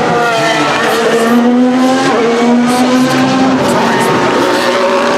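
Formula 1 car's 1.6-litre turbocharged V6 hybrid engine accelerating at full throttle. The pitch climbs through the gears, dropping at two upshifts roughly two seconds apart.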